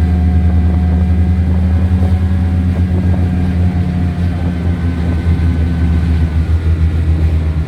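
Small engine of a 1970 Cony kei truck running steadily as the truck drives, a loud drone at a nearly constant pitch that eases slightly at the very end.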